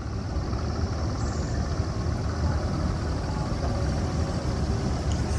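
Wind buffeting the microphone: a steady, fluttering low rumble, with a faint steady high hiss above it.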